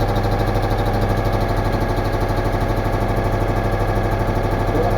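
Citroën Méhari's air-cooled flat-twin engine idling with a steady, even pulse, running without its cooling fan. Its exhaust leak has just been sealed with fresh exhaust cement, so it runs evenly while it warms up for the cement to harden.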